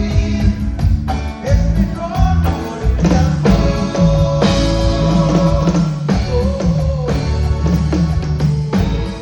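Live cumbia band playing, with a steady bass line, drums and a melodic lead.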